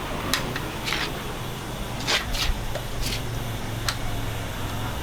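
A series of sharp clicks and knocks, about six in all and closest together about two seconds in, as an electric fan is handled and checked, over a steady low hum.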